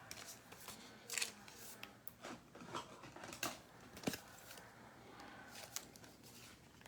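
Trading cards and packaging being handled: faint, scratchy rustles and scrapes with a few light clicks, the sharpest about four seconds in.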